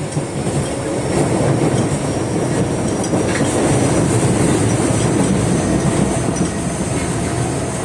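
Osaka Metro 22 series subway train running on the rails: a dense, steady rumble of wheels and running gear that grows louder about a second in and then holds.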